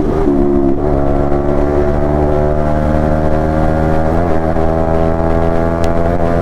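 Yamaha MT-15 V2's single-cylinder engine and exhaust running at steady cruising revs, the pitch holding nearly level with a brief wobble about four seconds in.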